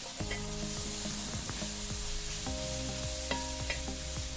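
Sliced onions and crushed ginger-garlic sizzling in hot ghee and coconut oil, stirred with a metal slotted spoon that clicks and scrapes against the pot, over soft background music.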